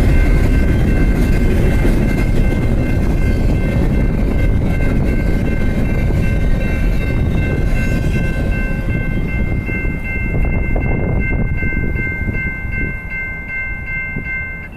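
BNSF freight train rolling past: a heavy, steady rumble of the cars and wheels on the track that begins to fade near the end. High ringing tones at three pitches run over it, and two of them stop just before the end.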